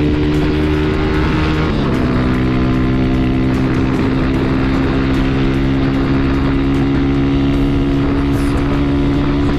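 Honda Titan 150 motorcycle's single-cylinder four-stroke engine running while riding. Its pitch drops about two seconds in, then climbs slowly and steadily.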